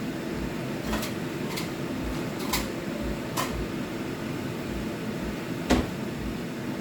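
Five light knocks and clinks of a spoon against a cooking pot and bowl, the loudest near the end, over a steady background hum.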